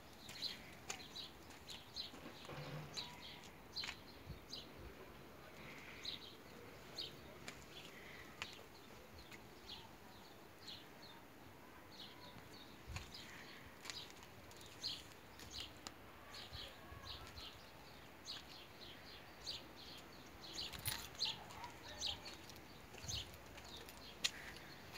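Birds chirping in many short, quick notes over quiet outdoor background.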